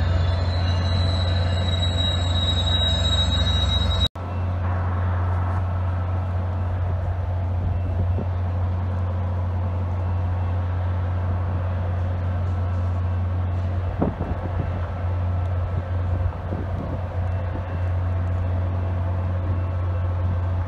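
A SunRail bilevel commuter train passing with a steady high wheel squeal over a low rumble. After an abrupt cut about four seconds in, a steady low hum and rumble from a stopped Amtrak train's diesel locomotive.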